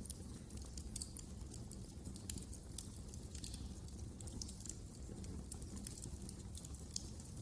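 Wood fire crackling: frequent irregular sharp pops and snaps over a low steady rumble of the flames.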